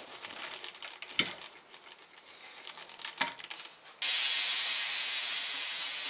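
Scattered light clicks and knocks, two of them sharper. About four seconds in, a sudden loud, steady rushing hiss starts and slowly fades.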